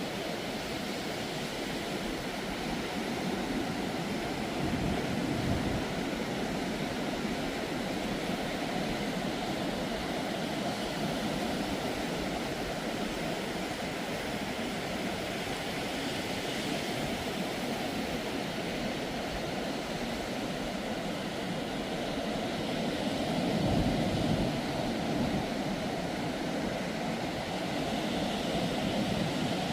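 Ocean surf washing onto the beach in a steady rush of noise, with louder swells of breaking waves about five seconds in and again near the end.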